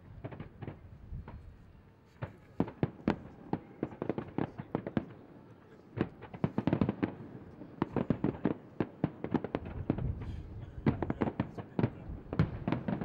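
Aerial fireworks bursting in quick, irregular volleys of sharp bangs, sparse for the first couple of seconds and then coming thick and fast, with a brief lull midway.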